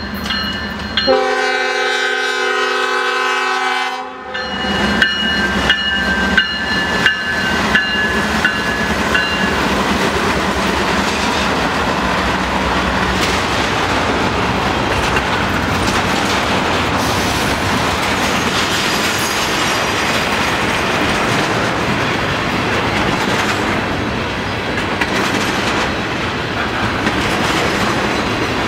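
Norfolk Southern stack train led by a GE C44-9W diesel locomotive: a horn blast of about three seconds starts about a second in. The locomotives then pass, and double-stack container well cars roll slowly by with a steady rumble and wheel clatter.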